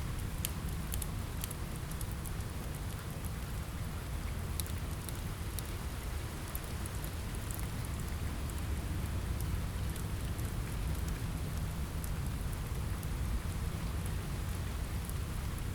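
Steady rain on a window with a deep rumble underneath, and scattered small sharp ticks and crackles, most of them in the first couple of seconds.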